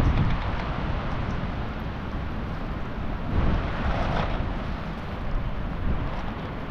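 Wind buffeting the microphone: a steady rushing noise with a heavy low rumble, swelling briefly about four seconds in.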